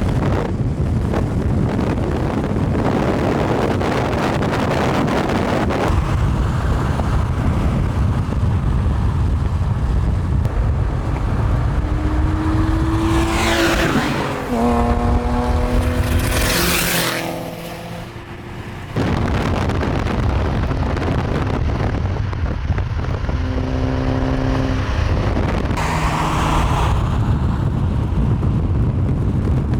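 Steady road and wind rumble from cars moving at speed, with a performance car's engine revving up through its gears about midway and again later on, and a loud rushing pass about halfway through.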